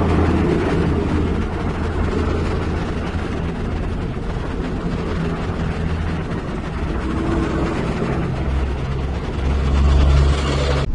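Heavy construction machine's diesel engine running steadily with a low rumble that swells near the end.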